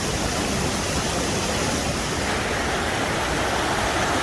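Steady, even rush of flowing water from a stream at the foot of a waterfall.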